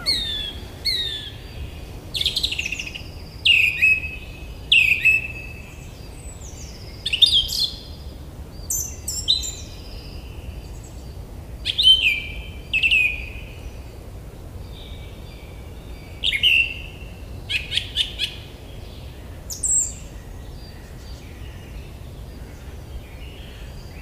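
Birds calling over and over, each call a short, sharp note that slides down in pitch, often in pairs. A quick run of sharp clicks comes about three-quarters through, over a faint low steady background.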